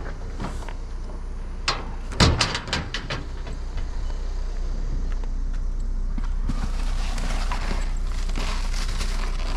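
A few knocks and rattles, the loudest a little over two seconds in, as something is opened and trash is handled. A steady noise sets in from about six and a half seconds on.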